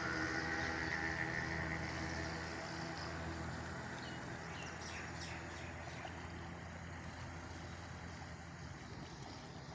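A steady low motor hum under a noisy rush, slowly fading, with a few faint high chirps about halfway through.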